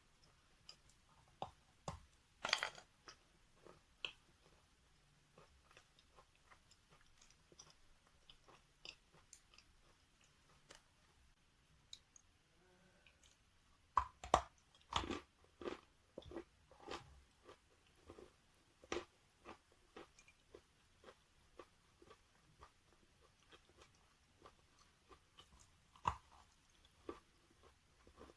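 A person biting into and chewing wet natural chalk: irregular crunches and crackles, with a run of louder bites about halfway through.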